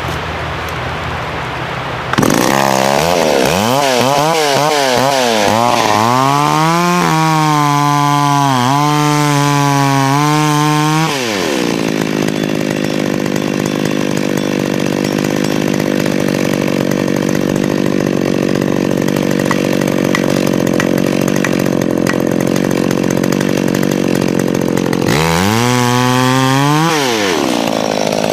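McCulloch Pro Mac 650 two-stroke chainsaw idling, then revved up and down several times. About eleven seconds in it settles into a steady, lower, rougher run for some fourteen seconds as it cuts through the log. It is revved again and drops back toward idle near the end.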